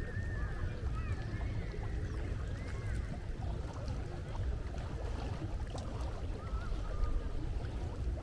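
Gulls calling, many short overlapping cries, over a steady low rumble of the sea.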